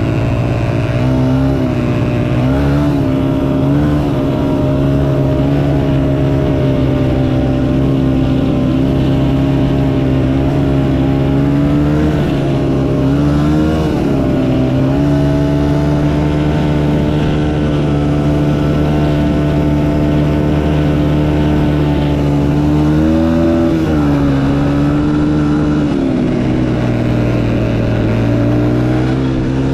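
Motocross dirt bike engine running hard under steady throttle, its pitch dropping and climbing again several times as the rider shifts and rolls on and off the throttle.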